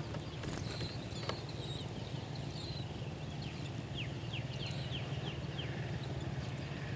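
A small bird chirping: a quick run of short, high, falling notes about halfway through, with a few scattered chirps before it, over a steady low rumble.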